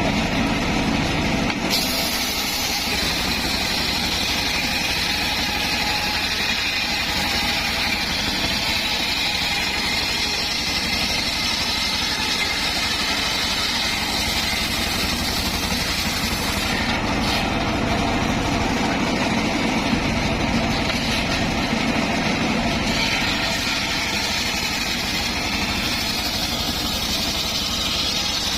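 Circular wood saw running steadily, a continuous machine sound.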